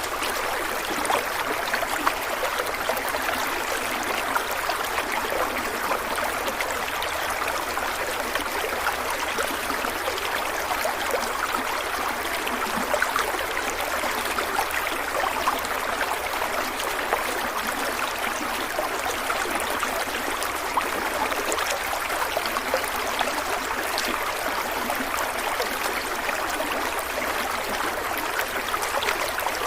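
Stream water running steadily over rocks, an even rushing and splashing with fine flickers of trickling.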